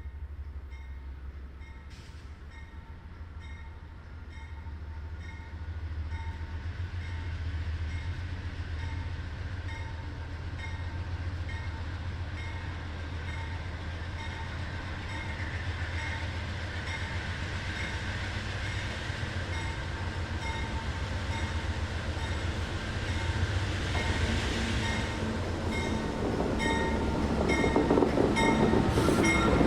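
Diesel freight locomotives approaching, their engines rumbling and getting steadily louder.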